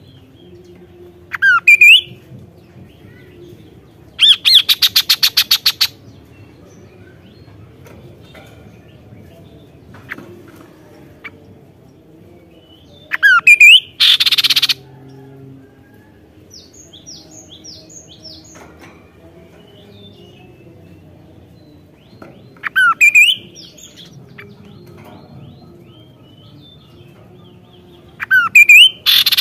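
Kaso-kaso bird calling: loud phrases of a quick upward-sweeping note followed by a rapid, harsh buzzing rattle, repeated about every nine seconds, with faint short chirps in between.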